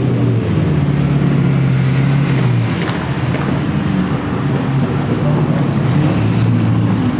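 A car engine running loudly at a steady speed, its pitch shifting about halfway through.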